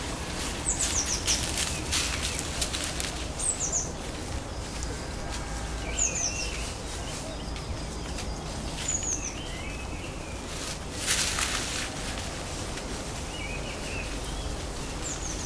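Wild woodland birds calling: short, high, falling notes in quick groups of three or four every few seconds, with lower scratchy calls in between, over a steady low rumble. Brief rushes of noise come near the start and again about eleven seconds in.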